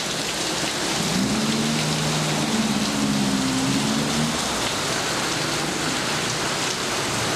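Heavy rain falling steadily, a dense hiss of drops on surfaces. From about a second in to about four seconds in, a low pitched hum rises briefly and then holds under the rain.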